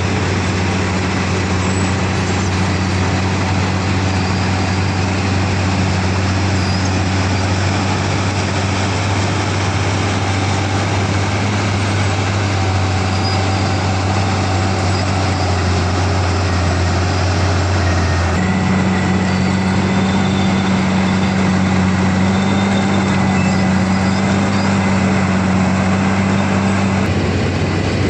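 Milling machinery running steadily with a loud, continuous hum and noise. The hum changes about two-thirds of the way through and changes back near the end.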